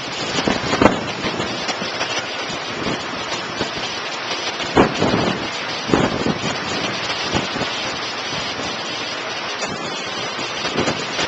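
Tropical-storm wind and rain: a steady rushing hiss, with heavier gusts buffeting the microphone about a second in and again around five and six seconds.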